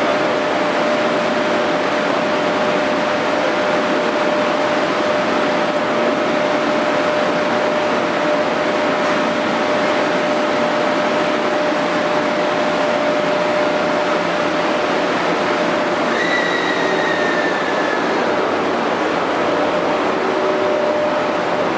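EF81 electric locomotive and 24-series sleeper coaches departing: a loud, steady running hum with a constant tone, then the coaches rolling past, with a brief falling whine about sixteen seconds in.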